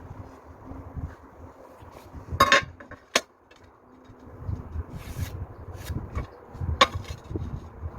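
Hard objects knocking and clinking as they are handled, with two louder ringing strikes, about two and a half and seven seconds in.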